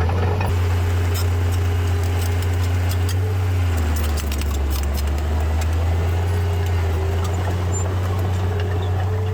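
Diesel engine of heavy earthmoving machinery running steadily, with light metallic clinking and rattling over it. The engine note drops lower about four seconds in.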